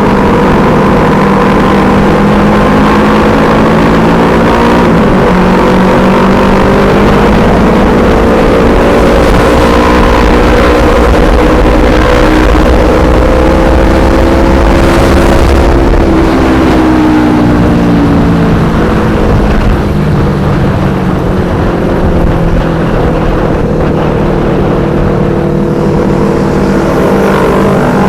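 Yamaha R25 parallel-twin engine running through an aftermarket Black Devils exhaust, a loud steady engine note. Its pitch climbs slowly for about fifteen seconds, then drops and settles lower.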